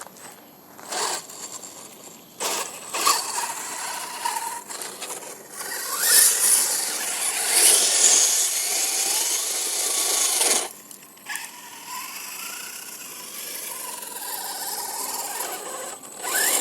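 Radio-controlled car's motor and drivetrain whining in bursts of throttle, wheels spinning without grip as the car is stuck. The longest and loudest burst lasts about four seconds near the middle, followed by quieter steady whining.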